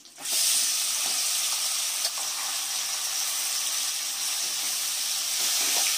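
Marinated chicken dropped into hot oil in a kadai, sizzling loudly; the sizzle starts sharply just after the start and holds steady as the pieces are stirred with a spatula.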